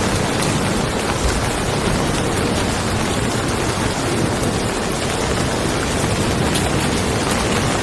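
Steady rain falling on a car, with a low rumble of distant thunder underneath.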